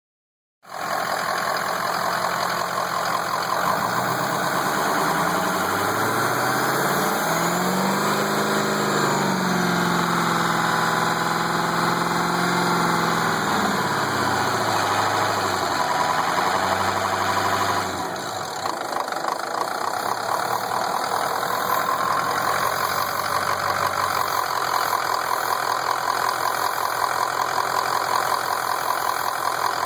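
Ford F-250 engine running with a hissing leak from the top of the engine, of unknown cause. The engine revs up and settles back down in the first half, and after that the hiss turns into a rapid pulsing.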